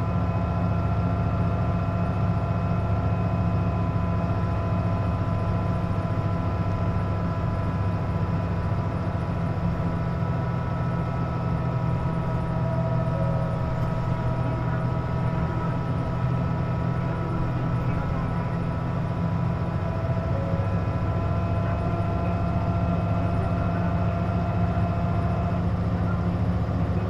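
Interior of a Hino KC-JP250NTN route bus: steady deep diesel rumble with a constant whine of several high tones over it. This whine is the abnormal noise the bus makes with its air conditioning running.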